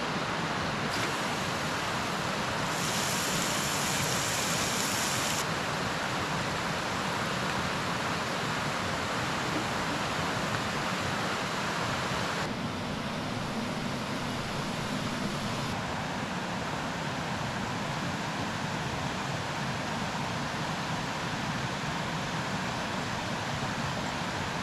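Seasoned beef stew meat sizzling as it browns in a pan on a Coleman camp stove: a steady hiss that shifts abruptly in tone a few times.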